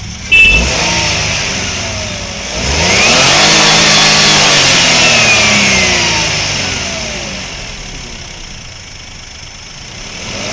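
Suzuki Wagon R car engine being revved: a sharp bang right at the start, then the engine climbs steeply a few seconds in, holds high, and slowly drops back toward idle before rising again near the end.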